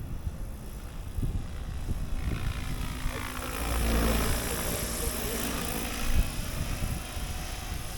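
Radio-controlled helicopter's rotor whirring overhead. It grows louder, is loudest about four seconds in, then fades as it passes. Wind rumbles on the microphone underneath.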